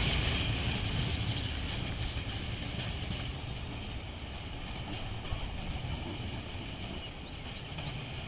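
Passenger train's coaches rolling away down the track, the rumble of wheels on rail steadily fading as the train recedes.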